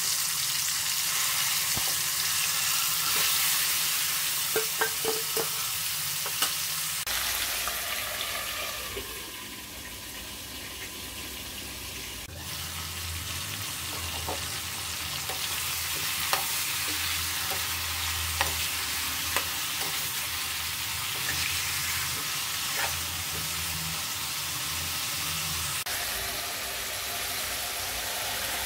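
Marinated chicken pieces sizzling steadily in hot oil in a kadai, with scattered sharp ticks.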